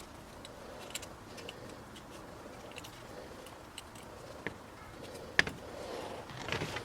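Scattered light clicks and taps, with one sharp click a little past five seconds in and a short rustle near the end.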